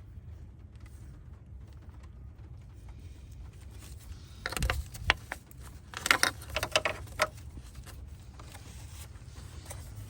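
Hands working on the truck's sensor wiring and connector under the hood: two clusters of sharp clicks and rattles, the first about halfway through and the second a second or so later, over a steady low rumble.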